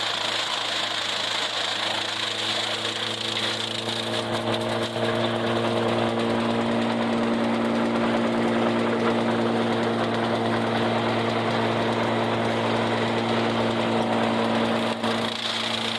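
Farmall 400 tractor engine running steadily, growing louder about five seconds in, with a brief dip near the end.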